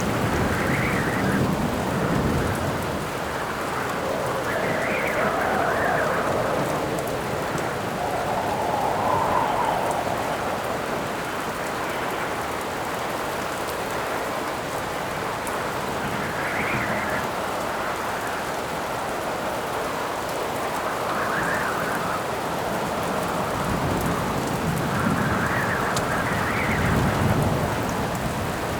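Steady rain falling while wind howls in gusts that swell and fade every few seconds. Low rumbles of thunder come near the start and again near the end.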